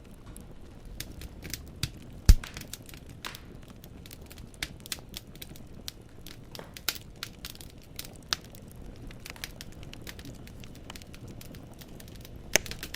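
Wood fire in a fireplace crackling, the logs giving off irregular sharp snaps over a low steady rumble of the flames, with one loud pop a little over two seconds in.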